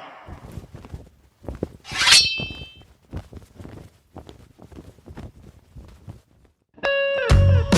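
A metallic clang that rings on briefly about two seconds in, among scattered knocks and clicks, then music with a heavy bass comes in near the end.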